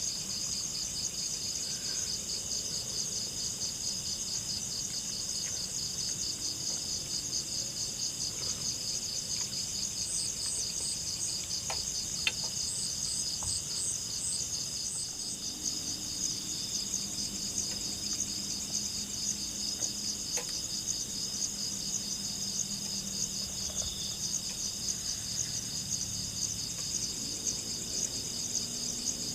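Steady, shrill chorus of crickets and other night insects in the forest, a fine pulsing trill that never lets up, with a few faint clicks.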